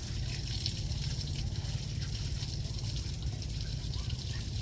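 Water trickling and running steadily, over a steady low rumble.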